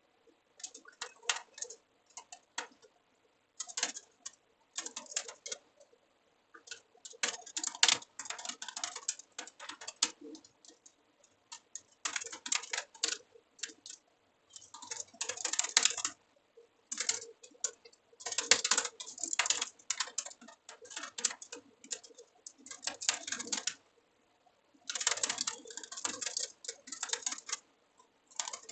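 Typing on a computer keyboard in quick runs of keystrokes a second or two long, with short pauses between them.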